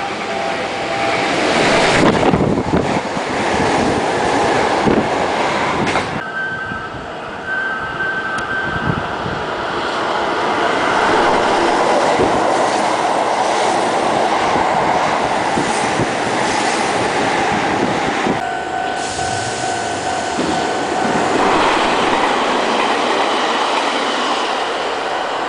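A train running on the rails, loud and steady, with a few clicks of wheels over rail joints about two and six seconds in and faint steady tones coming and going.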